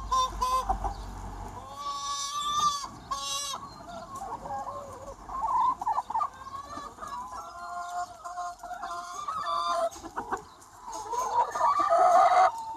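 A large free-range chicken flock: many hens clucking and calling over one another, with the loudest calls near the end.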